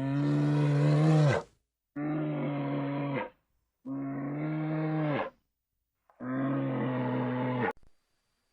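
A farm animal calling four times: long, low calls of about a second and a half each, steady in pitch and dropping off at the end.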